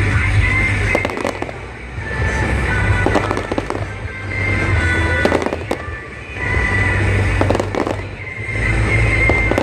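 Fireworks bursting in a series of sharp bangs, several in the span, over loud music with a strong bass.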